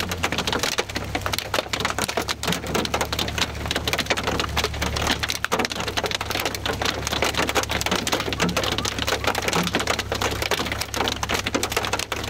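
Rain falling steadily, a dense rattle of drops striking close to the microphone, over a steady low rumble.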